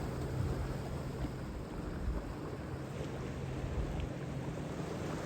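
Wind buffeting the microphone over the wash of a slightly choppy sea, with a faint steady low hum underneath.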